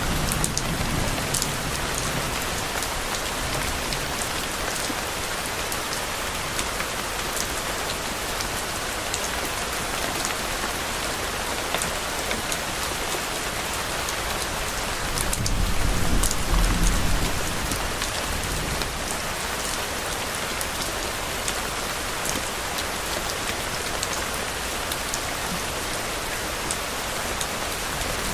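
Steady rain falling on a surface, an even hiss with scattered drop ticks. About halfway through, a low rumble of distant thunder swells for a few seconds and fades.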